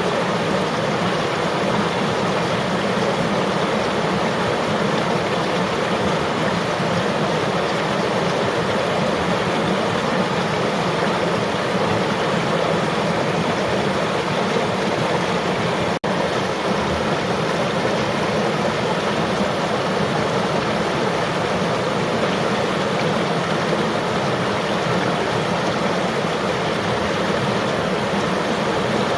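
River water flowing in a steady, even rush, with a split-second dip in level about halfway through.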